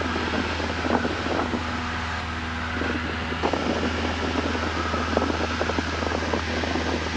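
Cessna 172N's four-cylinder Lycoming engine and propeller running steadily, heard inside the cabin as a constant drone with frequent faint crackles.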